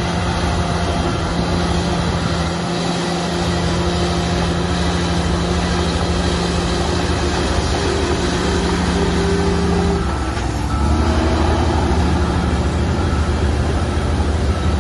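Heavy diesel earthmoving machinery running steadily under load. The engine note drops briefly about ten seconds in, then picks up again, a little louder.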